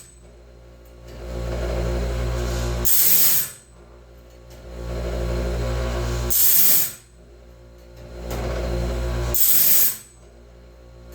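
Electric grinder on a DIY bandsaw-band sharpening rig, running with a steady hum, its wheel grinding one tooth at a time in short, loud, hissing bursts about every three seconds, three times. In between, the band is advanced to the next tooth.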